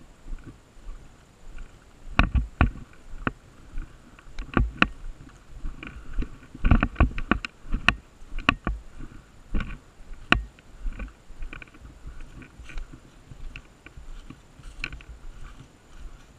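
A run of irregular sharp clicks and knocks, thickest in the middle stretch, over low rustling.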